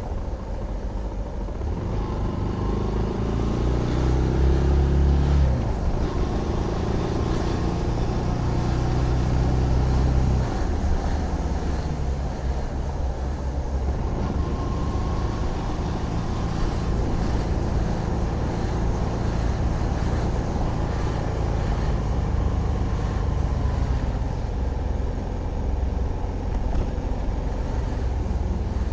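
Zontes GK 125 motorcycle's 125cc single-cylinder engine running on the move. It revs up with rising pitch, drops suddenly about five and a half seconds in as if on a gear change, changes again about ten seconds in, then runs fairly steadily, with wind and road noise over it.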